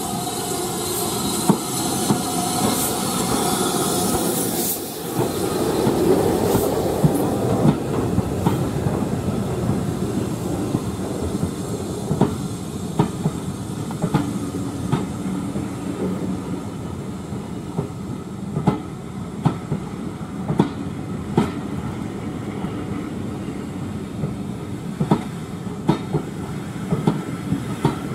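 Steam-hauled train running on a heritage line: a steady heavy rumble, with a held, pitched tone over the first five seconds or so, then a regular clicking of wheels passing over rail joints.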